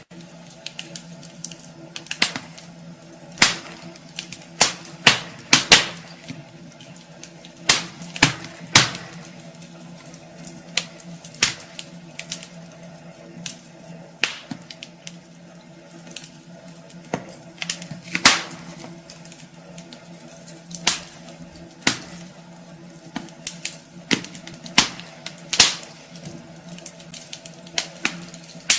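Wood fire burning in a fireplace: irregular sharp crackles and pops, sometimes several a second and sometimes a second or more apart, with a few louder snaps, over a low steady hum.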